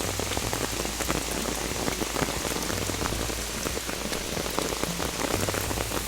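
Steady rain falling and pattering on surfaces, many fine drop ticks over an even hiss.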